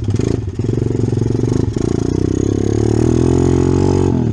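Single-cylinder four-stroke off-road engine running loud and close, rising in pitch as it is revved about two and a half seconds in, then easing back near the end.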